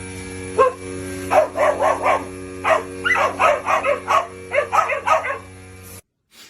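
A dog barking in quick, short, high yaps, about fifteen of them in bunches, over a steady background hum. The sound cuts off suddenly near the end.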